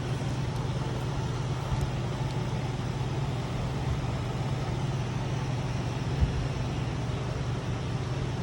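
A steady low mechanical hum, like a running fan, with a few faint clicks, one a little after six seconds in.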